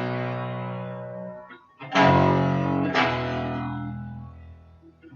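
Guitar in drop D tuning playing the song's power chords one at a time. One chord is ringing at the start, then two more chords are struck about 2 and 3 seconds in, each left to ring and fading out slowly.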